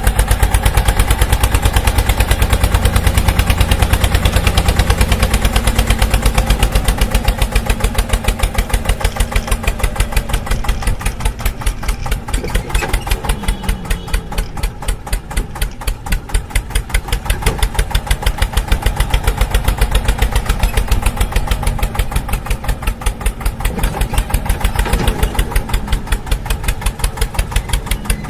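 A DIY mini tractor's motor running steadily, with a rapid, regular beat of about seven pulses a second.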